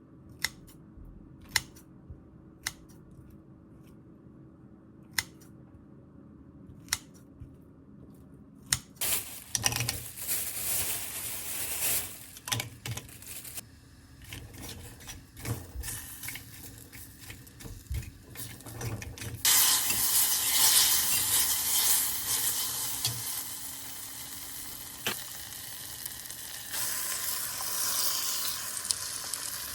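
Utensils clicking and tapping against dishes, then food frying in a hot pan, with stirring and scraping. The sizzle grows much louder about twenty seconds in.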